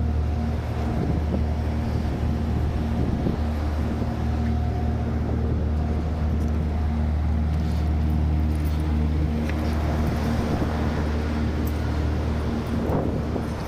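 Package air-conditioning unit running with a steady, loud low hum and a few steady tones over an even whir.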